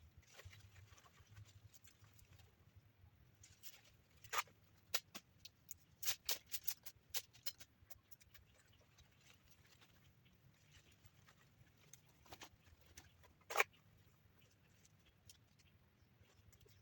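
A run of sharp, irregular clicks and knocks, clustered around the middle, with one louder knock later on, over a faint low hum.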